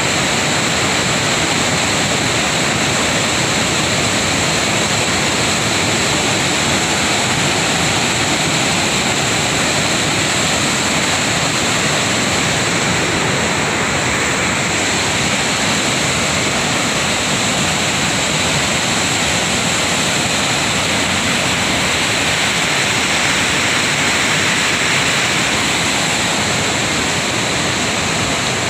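Lohit River rushing and churning: a loud, steady roar of fast-flowing water.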